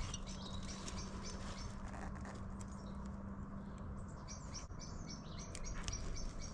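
Faint birds chirping, with small scattered clicks of a tool working at a plastic airbag connector. A low steady hum fades about two-thirds of the way through.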